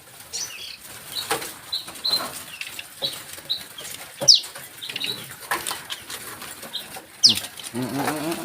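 Decoy birds calling: short high chirps over and over, two sharp falling whistles, and quick fluttering clicks, with a lower clucking call near the end.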